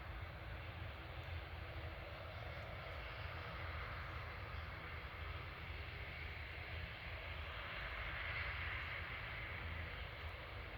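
Boeing 787-9 jet engines heard from a distance as a steady rushing roar, which grows a little louder and brighter toward the end.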